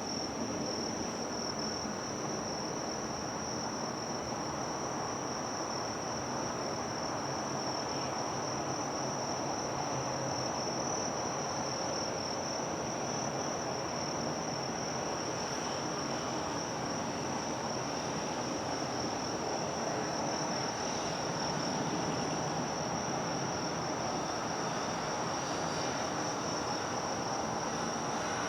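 Insects chirring in one steady, unbroken high note, over an even background hum of harbour and city noise.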